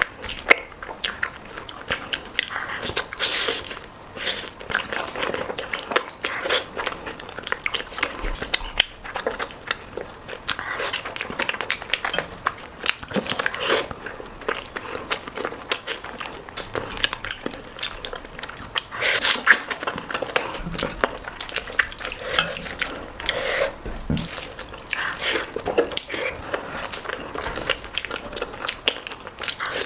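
Close-miked eating: wet chewing, lip smacks and bites of curry, rice and roti, with an occasional clink of a utensil or plate. It is a steady, irregular run of small wet clicks.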